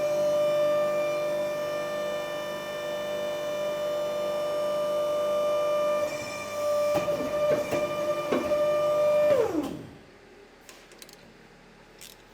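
Electric power tool motor running at a steady high whine, with a few clicks about seven to eight seconds in, then winding down in pitch and stopping.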